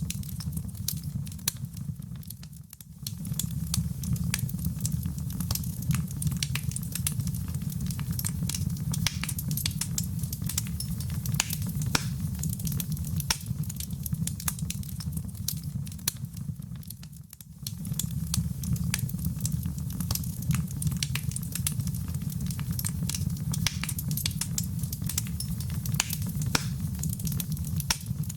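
Wood fire in a fireplace crackling: a steady low roar with many sharp pops and snaps throughout. It dips briefly twice, about two and a half seconds in and again about seventeen seconds in.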